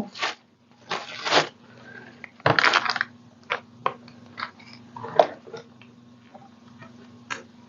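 Paper crinkling and rustling in a few short bursts, followed by a string of light clicks and taps as craft materials are handled.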